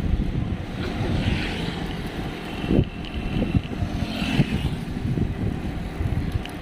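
Wind buffeting the microphone of a camera on a moving bicycle, a steady low rumble, with a sharp knock about three seconds in.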